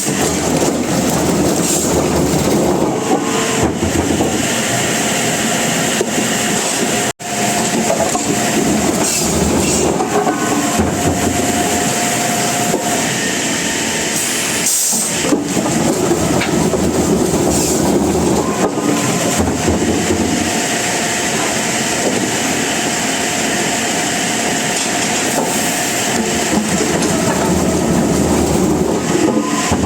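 Sawmill machinery running: a steady, loud mechanical noise, broken by a momentary drop about seven seconds in.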